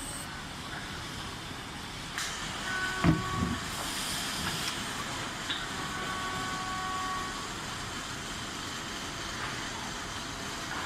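Electric reach truck running, with a steady hiss and a faint whine that comes and goes. There is a knock about 2 seconds in and a low thump about a second later.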